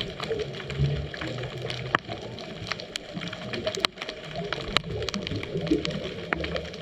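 Underwater sound from a scuba dive: bubbles gurgling and rumbling unevenly, with many scattered sharp clicks.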